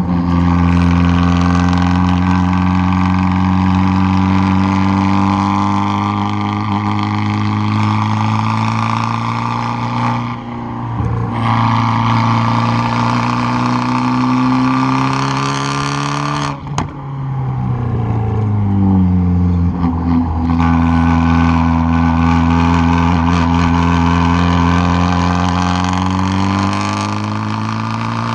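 Exhaust of a tuned 2013 Fiat 500 Abarth's turbocharged 1.4-litre four-cylinder, heard from the rear bumper as the car is driven hard up a canyon road, engine pitch climbing and falling with the revs. The sound drops off briefly twice, around ten and seventeen seconds in, the second time with a few sharp pops from the exhaust.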